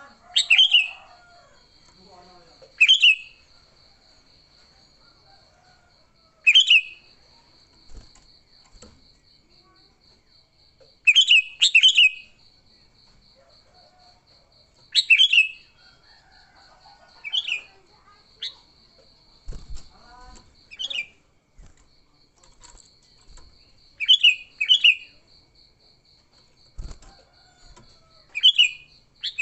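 Sooty-headed bulbul (kutilang) giving loud, short, falling calls every few seconds, several of them in quick pairs: the agitated 'fighting' calls used to lure bulbuls. A faint steady high insect trill runs beneath.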